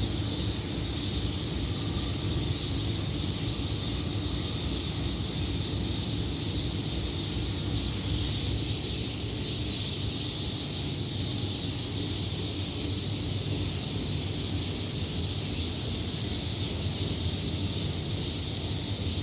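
Early-morning outdoor ambience: birds chirping over a steady high-pitched hiss of chorus, with a low rumble underneath.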